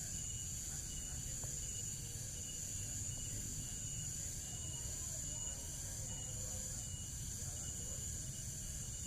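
Insects chirping steadily in the background: a constant high-pitched drone with a quieter, repeating chirp beneath it, over a low steady rumble.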